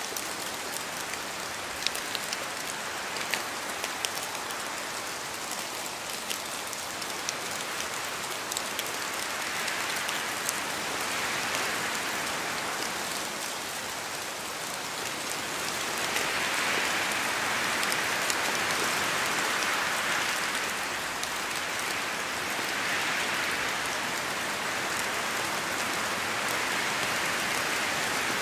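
Steady rain falling, with sharp individual drop ticks over the first few seconds; the rain swells heavier in waves around the middle and again later.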